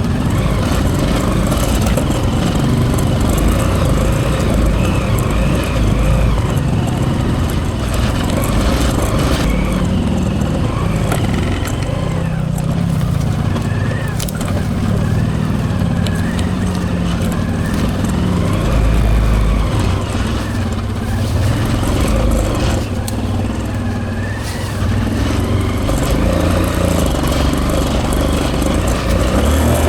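Hero Impulse's single-cylinder engine working hard on a dirt hill climb, its revs rising and falling with the throttle, under a heavy low rumble from wind and jolts on a helmet camera.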